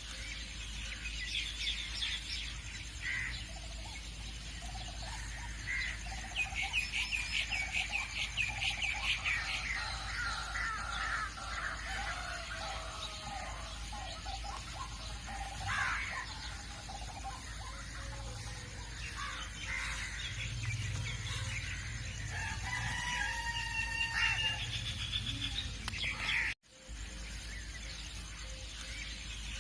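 Birds calling and chirping, with a dense run of rapid notes a few seconds in, over a steady low hum; the sound drops out for a moment near the end.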